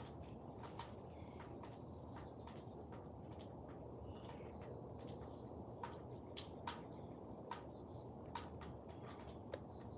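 Faint bird chirps on and off over a steady low background hum, with scattered light clicks.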